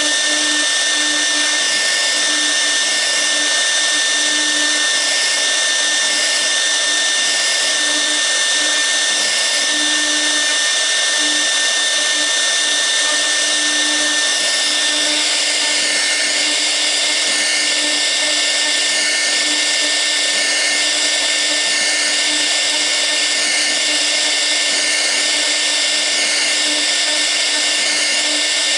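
6 kW air-cooled spindle of a CNC router running steadily with a high whine while a V-bit carves a toolpath into the workpiece. The higher, wavering part of the sound shifts its pattern about halfway through as the cut moves on.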